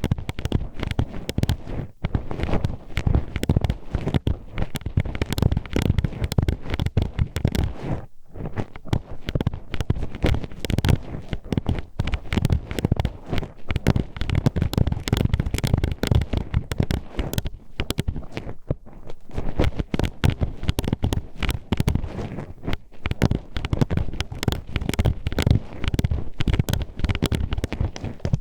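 Metal hairpins poked and scraped inside a microphone's ear for ASMR, making a dense, irregular run of close, loud clacking and crackling clicks. There is a short pause about eight seconds in.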